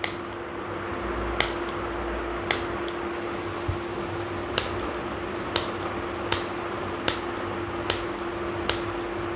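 Repaired hand-held gas stove spark lighter being triggered again and again, each press giving a sharp click as it sparks. There are about nine clicks, roughly a second apart, over a steady low hum. Having just been repaired, the lighter is now sparking properly.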